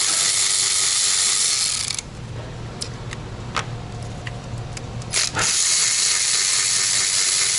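Cordless drill-driver with a T30 Torx bit spinning out bolts, in two runs: one lasting about two seconds, the next starting about five and a half seconds in. Light clicks and taps come between the runs.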